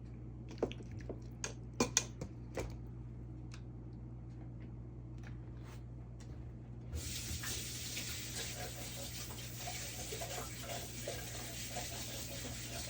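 A few light clicks and knocks, then about seven seconds in a kitchen tap is turned on and water runs steadily into the sink.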